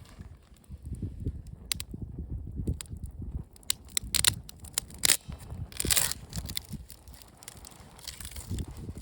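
Wood campfire crackling, with irregular sharp pops and snaps over a low rumble; the pops are thickest about halfway through.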